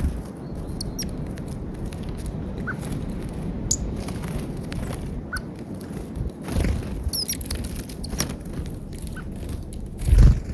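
Wild birds at a snowy feeder: short high chirps and scattered clicks over a steady low rumble. Two low thumps, one about six and a half seconds in and one near the end.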